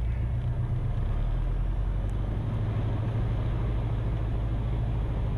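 Cessna 172RG's four-cylinder Lycoming engine running steadily at low power, an even drone heard inside the closed cabin.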